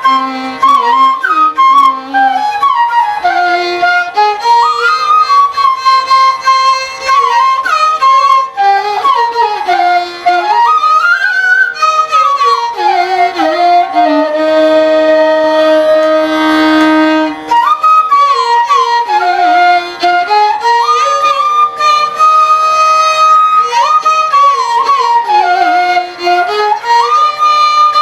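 Carnatic instrumental music: a violin melody that slides and bends between notes, over a steady drone.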